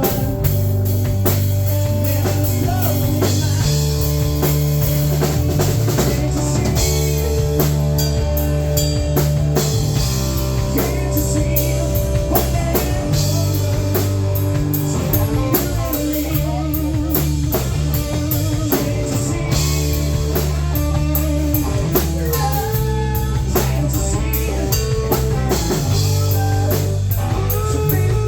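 Live rock band playing an instrumental passage: drum kit keeping a steady beat under bass and guitar.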